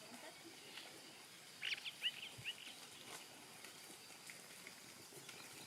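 A bird gives a brief run of quick, high chirps about a second and a half in, over a faint steady background hiss.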